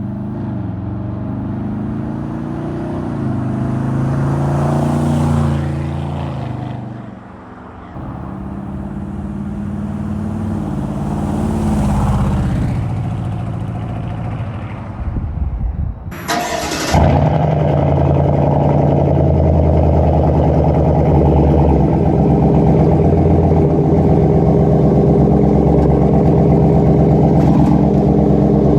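A Chevy Silverado's 5.3-litre V8 through a true-dual exhaust with two Borla ATAK mufflers pulls away hard twice, the engine note rising over several seconds each time before easing off. After an abrupt cut about sixteen seconds in, the exhaust runs steadily at driving speed.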